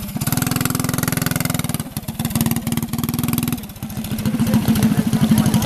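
Mini bike's small engine running, its speed dropping off briefly twice and then picking up louder near the end.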